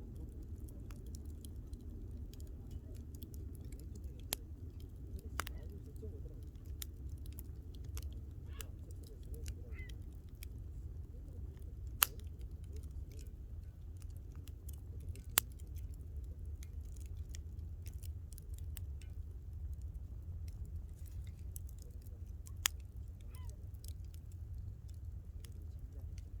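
Wood campfire burning, crackling with irregular sharp pops over a steady low rumble; the loudest pops come about halfway through.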